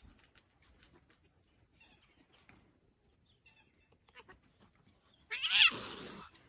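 Faint scattered ticks, then near the end a single loud animal cry, about a second long, that falls in pitch.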